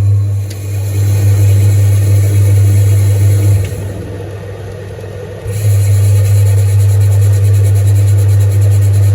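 Zanussi TD200 tumble dryer running with a loud, steady motor hum. The hum drops away for about two seconds midway as the drum pauses to reverse, while the separate blower motor keeps the air moving, then comes back at full strength.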